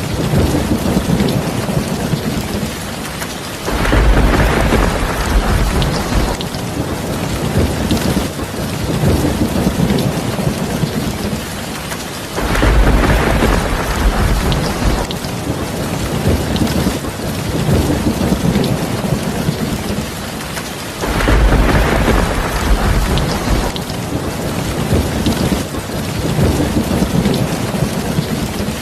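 Steady heavy rain falling on a terrace of earthenware crocks, with low rumbles of thunder swelling up three times, about every eight or nine seconds.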